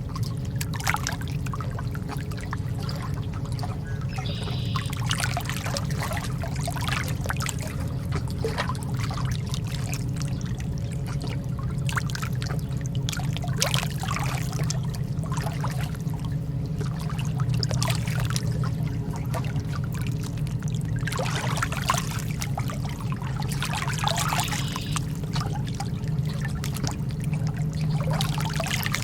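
Calm lake water lapping and trickling, with soft irregular splashes every second or two over a steady low rumble.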